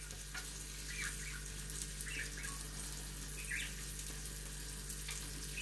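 Sausage and bacon slices sizzling on the hot plate of an electric raclette grill, a steady frying hiss. A small cage bird gives a few short chirps over it.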